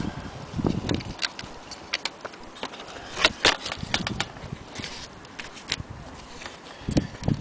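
Irregular clicks and light knocks, loudest about halfway through, with a few dull thumps: small hard objects being handled.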